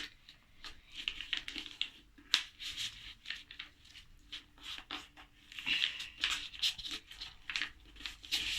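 A sheet of US Letter paper being flipped and folded by hand: scattered rustles and short, sharp crinkles as the crease is pressed down.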